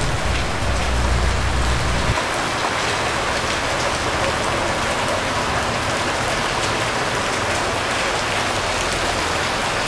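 Rain pouring steadily onto a wet street, an even hiss. A low rumble runs underneath for the first two seconds and stops abruptly.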